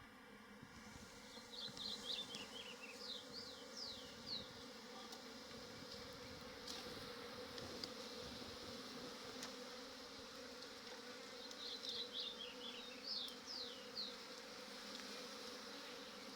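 A swarm of honeybees buzzing in a steady hum. Twice, a quick run of short, high, falling chirps sounds over it.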